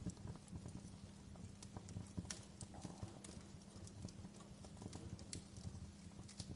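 Campfire burning, with irregular sharp crackles and pops from the wood over a low steady rumble.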